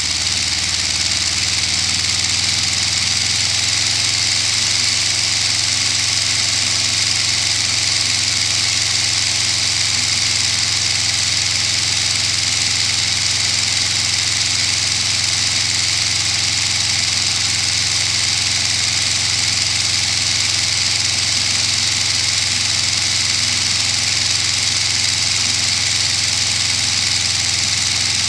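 Running sound of a Lego inline-12 two-stroke diesel engine build, made of three Detroit Diesel 4-71 models geared together. It runs steadily, rising slightly in pitch over the first few seconds and then holding an even note.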